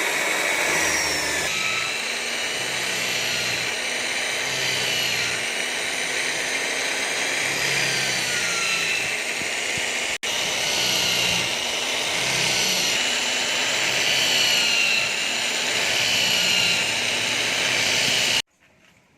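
Steady whirring of a power tool running continuously. It breaks off for an instant about halfway through and stops abruptly near the end.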